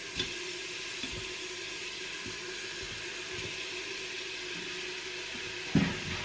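Chicken strips sizzling as they brown in the hot pot of a Cookeo electric multicooker, with a wooden spatula scraping and knocking against the pot, loudest once near the end.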